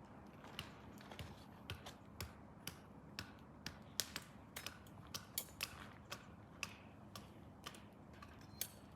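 Wood pellets crackling as they burn in a Field to Summit Flame Stove L wood-gas stove during secondary combustion: irregular sharp pops, about two or three a second, over a faint steady hiss of the fire.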